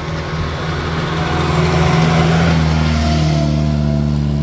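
A car's engine pulling under load as it drives up the hill, growing louder over the first two seconds as it comes close. Its pitch shifts about three seconds in.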